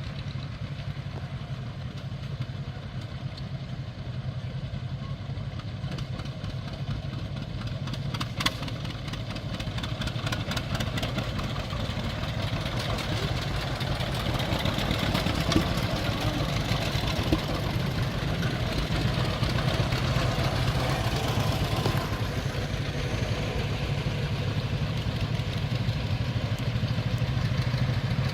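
John Deere two-cylinder tractor engine running with a rapid, steady exhaust beat, growing gradually louder.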